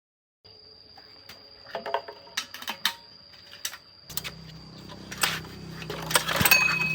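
Irregular metallic clicks and clinks over a thin, steady high tone; a low hum joins about four seconds in, and the loudest clinks come near the end.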